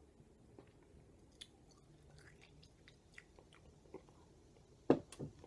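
Faint wet clicks of a mouth chewing a wad of dry loose-leaf chewing tobacco, with a louder click shortly before the end.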